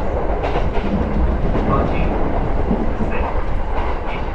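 Kintetsu Nara line electric commuter train running at speed, heard from inside the carriage: a steady low rumble of wheels on rails with a few faint clacks.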